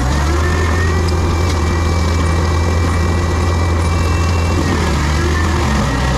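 Heavy diesel land-clearing machine running steadily with a deep, even hum. A thin high whine comes in about a second in and fades out a little past the middle.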